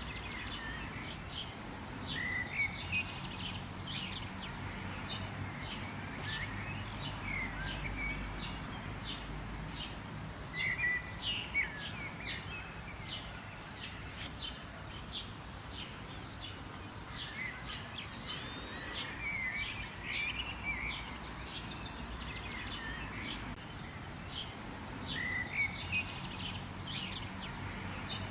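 Several small birds chirping and calling, with rapid runs of short, high chirps and a few slurred whistled notes, over steady low background noise.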